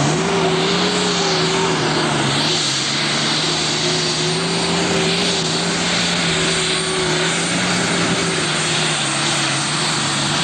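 Multi-turbocharged Super Stock pulling tractor's diesel engine running hard at a high, steady speed, the pitch wavering slightly, with a dense rushing noise over it.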